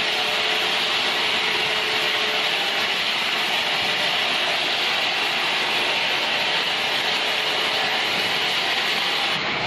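Steady, hissing machine noise of a power tool or wood-working machine running at constant speed, with an abrupt change near the end.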